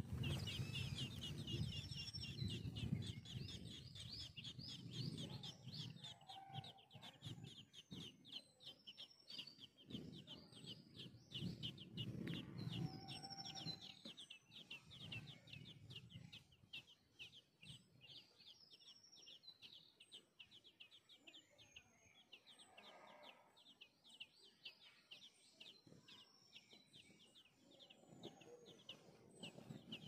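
Birds chirping: a rapid, continuous series of high chirps, several a second, with scattered higher notes and lower calls that come and go.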